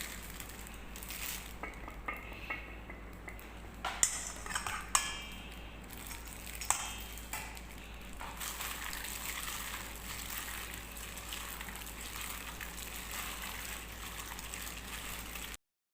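Chicken strips frying in a pan: a few sharp metal clinks of a utensil against the pan, then a steady sizzle from about halfway through, which stops abruptly near the end.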